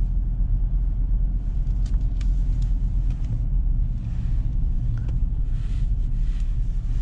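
Steady low engine and road rumble inside the cab of a diesel Ford Ranger pickup on the move, with a few faint ticks and patches of higher hiss over it.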